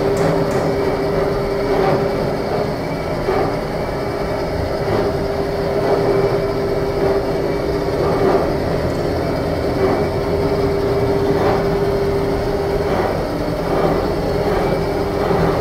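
Steady, loud running noise of a vehicle: a rumble with a constant mid-pitched hum and faint knocks about every second and a half.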